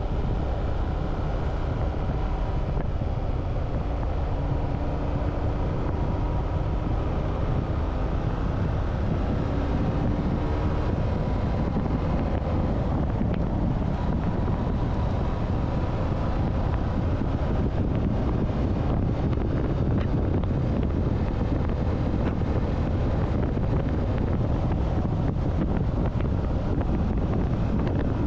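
Motorcycle riding with heavy wind noise on the microphone; the engine's note is heard shifting a little in pitch over the first ten seconds or so, then is mostly buried under the steady wind rush.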